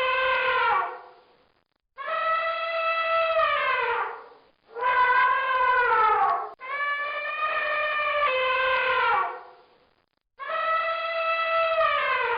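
Elephant trumpeting: a series of long, loud, brassy calls, each holding a steady pitch before dropping off at the end, about four in a row with short silent gaps between them.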